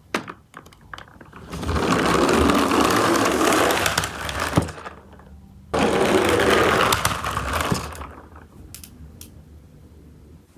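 Toy garbage truck running, a whirring rattle in two long spells, the second starting abruptly, with a few clicks and clatters around them.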